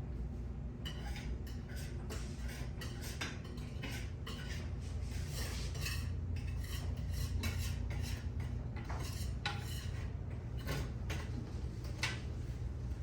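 Small hard objects, likely metal, clinking and tapping against each other many times at an irregular pace, over a steady low hum.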